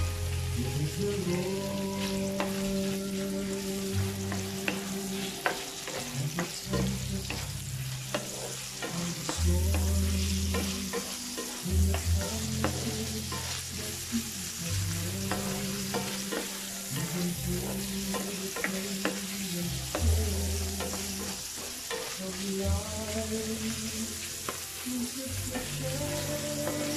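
Diced chicken frying in hot oil with garlic and onion in a non-stick pan, sizzling steadily while a wooden spatula stirs and scrapes it, with frequent light taps and scrapes. Low background music with a changing bass line plays underneath.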